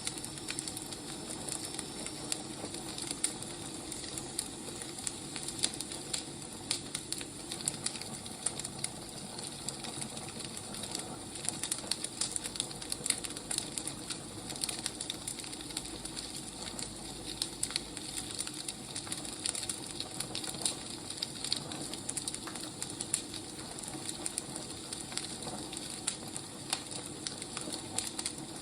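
Firewood burning: a steady hiss with frequent small, sharp crackles and pops.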